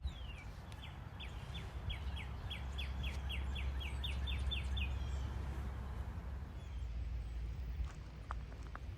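A bird calling a quick series of about fifteen short, falling notes, about three a second, that stops about five seconds in, over a steady low outdoor rumble. Faint footsteps start near the end.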